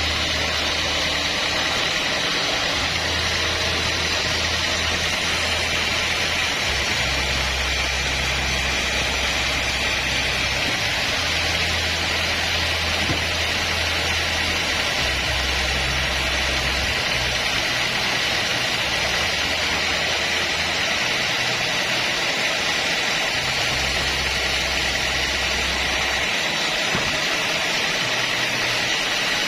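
Homemade bandsaw sawmill running steadily, with a faint constant whine over the machine noise.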